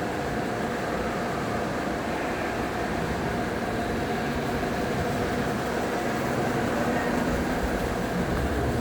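An old 1980s Ciclone ceiling fan running steadily: an even motor hum with a faint steady whine over a wash of air noise.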